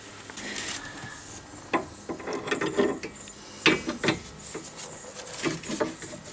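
Hand tools working the nut off a Toyota Corolla's front sway bar link, making irregular metallic clicks and knocks, some in short quick runs.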